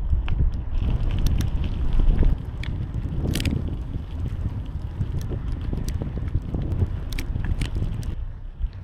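Wind buffeting the microphone of a bicycle-mounted camera while riding, a steady low rumble, with scattered clicks and rattles from the bike on the road.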